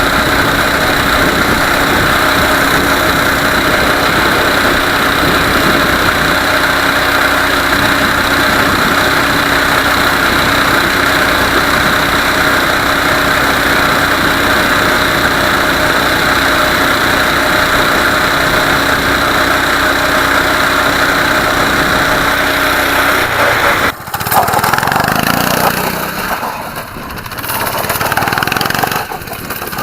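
Mini bike's small engine running at full throttle at a steady top speed, one even, unchanging note. About 23 seconds in the steady note breaks off and the engine sound turns uneven and falls in pitch as the bike slows.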